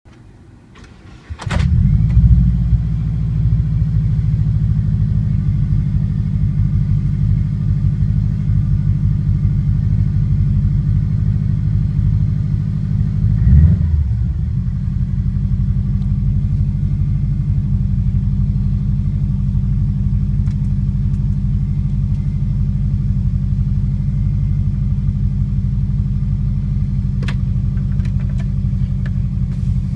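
Subaru Impreza's flat-four boxer engine, cold: a short crank, it fires almost at once, then settles into a steady cold idle. About halfway through the engine sound briefly swells and dips back to idle.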